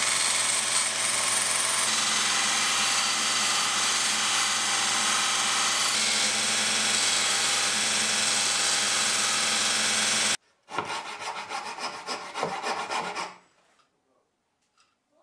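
An electric power tool running steadily at constant speed against a workpiece with a harsh rasping noise. It cuts off abruptly about ten seconds in and is followed by a couple of seconds of rapid, uneven scraping strokes.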